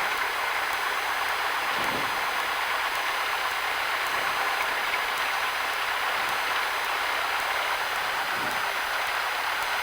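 Steady cockpit noise of a Cessna 172 waiting with its engine at idle, heard as an even hiss through the headset intercom feed.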